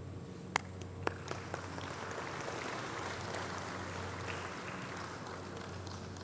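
Audience applauding: a few scattered claps that build into light applause and then taper off, over a steady low hum.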